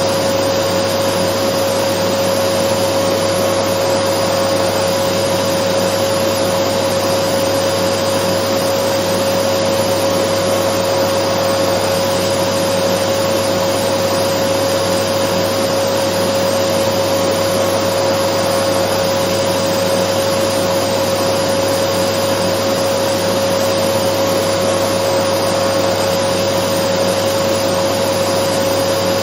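Dyson vacuum cleaner running steadily: an even rushing hiss with a constant whine that never changes pitch or level.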